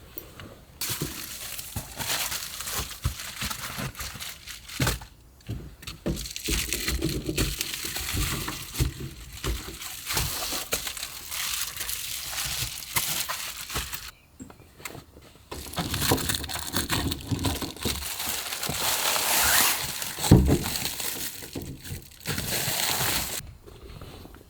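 Crinkling and crackling of plastic or paper packaging being handled, in two long stretches with a short pause in between.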